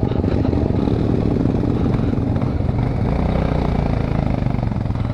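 Motorcycle engine running steadily in low gear as the bike climbs a rough off-road track, with a fast, even exhaust beat.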